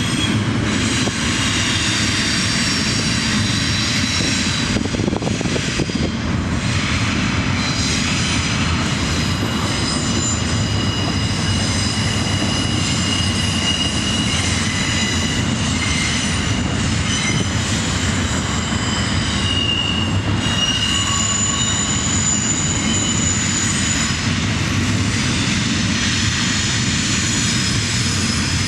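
CSX diesel locomotive running past, a steady engine rumble with thin high-pitched tones held above it.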